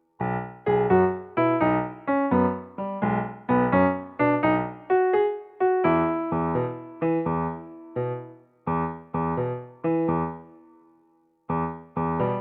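Background music: electric piano playing a light tune of separate struck notes, each fading after it sounds, with a short break near the end.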